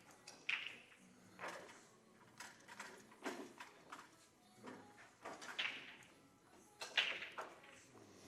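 Pool balls knocking and clattering together in irregular bursts, as they are gathered up between racks of 9-ball. The sharpest clack comes about seven seconds in.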